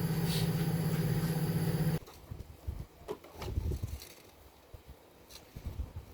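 A small motor hums steadily and cuts off suddenly about two seconds in; faint low knocks and a few clicks follow.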